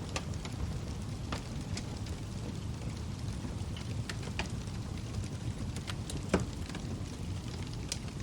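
Log fire crackling: scattered sharp pops and snaps at irregular intervals over a steady low rumble, with one louder pop about six seconds in.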